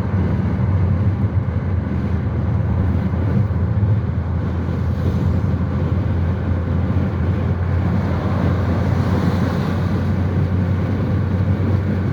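Steady engine and road noise of a moving vehicle, a constant low hum with a rushing noise over it.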